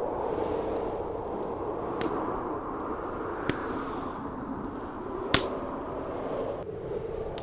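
Blizzard wind blowing steadily, with a wood fire crackling over it: three sharp pops, the loudest about five seconds in.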